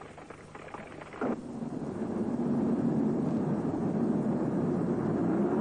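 Land Rover Series 3 engine running steadily and getting louder, after a short knock about a second in and faint crackling before it.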